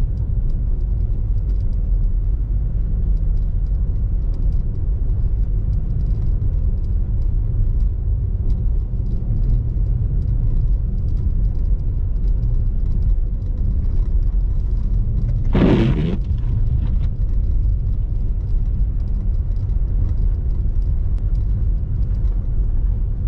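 Car driving on snowy roads, heard from inside the cabin: a steady low rumble of engine and tyres. A single brief, sharper sound cuts in about two-thirds of the way through.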